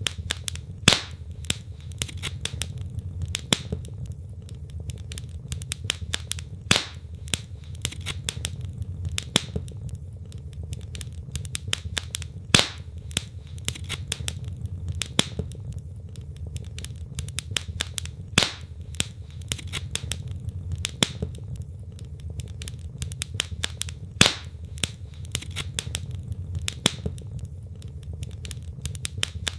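Wood fire burning in a fireplace: logs crackling with irregular sharp pops, several louder snaps among them, over a steady low rumble of the flames.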